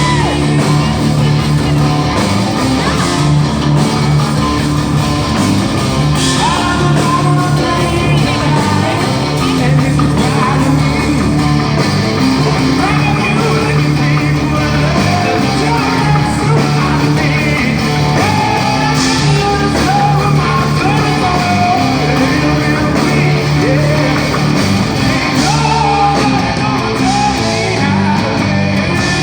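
Live hard rock band playing loud, with a singer's voice over guitar, bass and drums.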